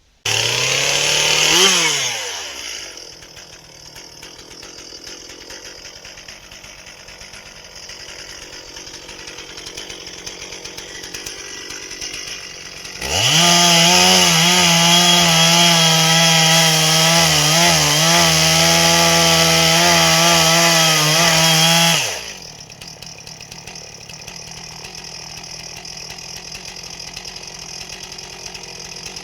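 Chainsaw revved once briefly, then idling. About halfway through it runs at full throttle for about nine seconds, its pitch wavering slightly as it cuts through a log, then drops back to idle.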